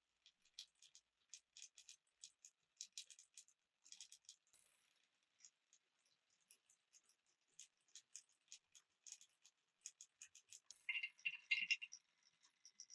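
Faint, irregular light clicks and taps of small hard objects, with a louder cluster of clicks near the end.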